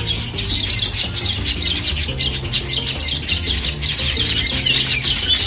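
A flock of many small birds chirping and chattering, dense and continuous, over background music with steady low notes.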